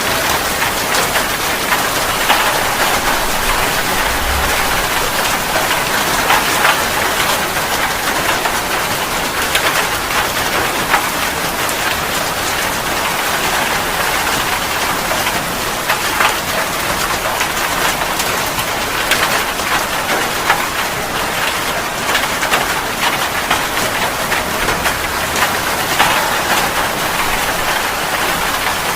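Steady heavy rain falling on a surface, a dense even hiss with many small individual drop impacts ticking through it.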